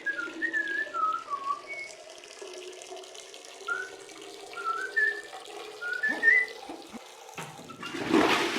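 Short whistled notes sliding up and down in pitch, scattered over a steady low hum. A loud rushing noise, like running water, starts near the end.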